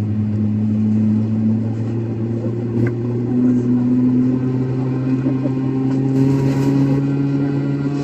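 Airliner jet engines heard from inside the cabin, a loud steady hum whose pitch climbs slowly as the engines spool up.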